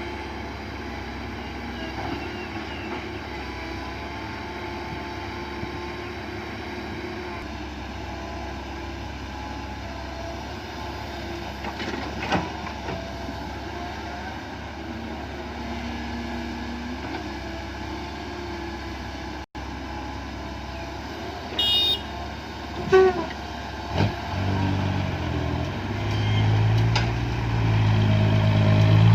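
Diesel engine of a Komatsu PC130 excavator running steadily while it digs, with a few sharp metallic knocks about three-quarters of the way through. Near the end a louder diesel engine comes in and builds up.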